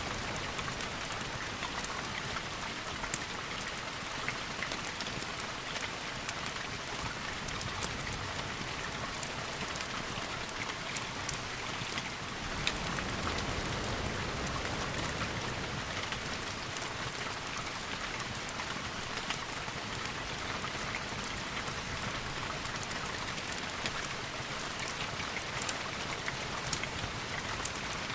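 Steady rain falling, a constant hiss with many small sharp ticks scattered through it.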